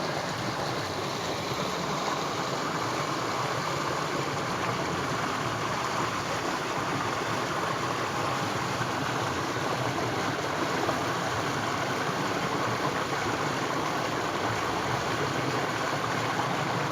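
Steady rushing of flowing water, an even hiss-like noise without breaks.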